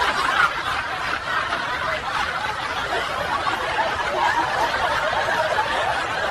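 Several people laughing and chuckling together steadily, many voices overlapping with no words.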